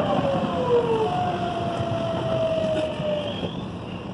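Electric train heard from inside the carriage: a steady rumble of the running train with a motor whine that slides down in pitch in several overlapping steps as the train slows, dying away about three seconds in.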